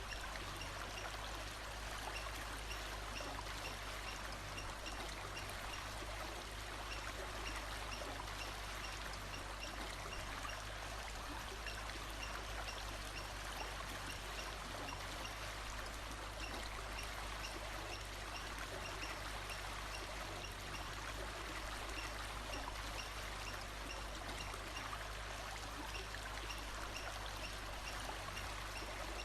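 Stream water running steadily, with a faint high-pitched call repeating at an even pace over it.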